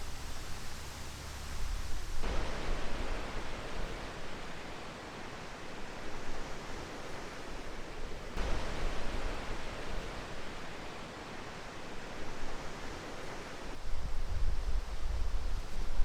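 Strong, gusty wind: a low rumble of wind buffeting the microphone in some stretches and a steady rushing hiss in others, switching abruptly a few times.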